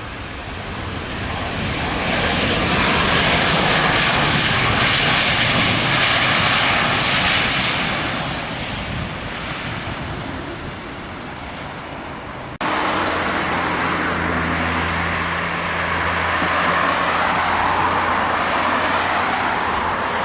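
Jet airliners on landing approach passing overhead. The engine noise swells, peaks and fades. About two-thirds through it cuts abruptly to another aircraft, whose engines give a low steady hum with a rushing noise that grows louder near the end.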